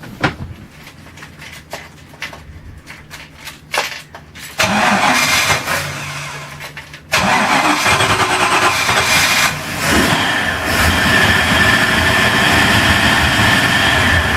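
A boat's engine being cold-started: a few clicks, then it cranks about four and a half seconds in, and from about seven seconds in it runs steadily.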